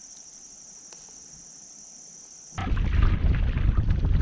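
A steady high-pitched insect chorus that cuts off abruptly about two and a half seconds in, replaced by loud wind rumbling on the microphone with scattered knocks and splashes from kayak paddling.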